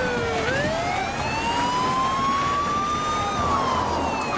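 Police car siren on a slow wail: the pitch drops about half a second in, climbs steadily for about three seconds, then starts to fall again.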